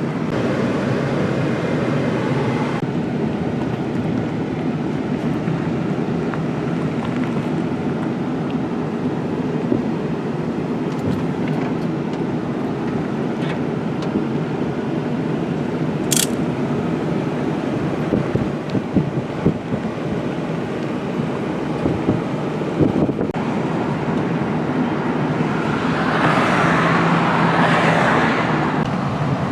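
Steady road-vehicle running and road noise. There is one sharp click about halfway through and a louder rushing swell for a couple of seconds near the end.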